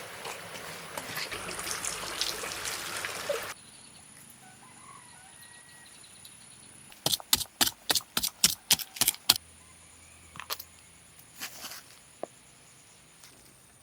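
Domestic chickens on a farm. A dense crackling noise for the first few seconds cuts off suddenly. Then comes a quick run of about a dozen sharp taps over two seconds near the middle, with a few scattered taps after.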